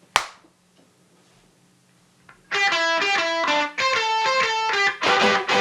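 A single sharp click, then a short quiet before a guitar starts picking the single-note intro of a song about two and a half seconds in, growing fuller with heavier strummed hits near the end.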